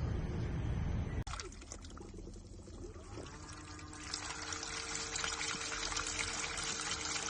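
Water pouring and trickling into a folding portable mini washing machine, with a steady low hum joining about three seconds in.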